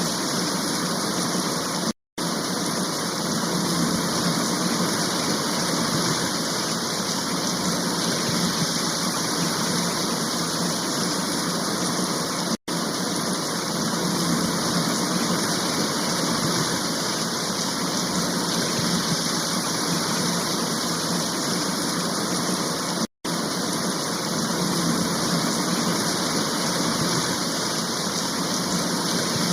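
Floodwater rushing in a steady, loud roar, broken three times by a split-second silence.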